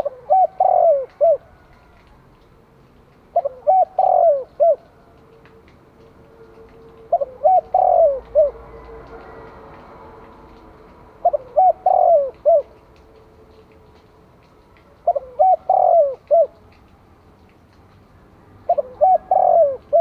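Spotted dove cooing its calling song: six short phrases of three or four notes each, repeated every three to four seconds.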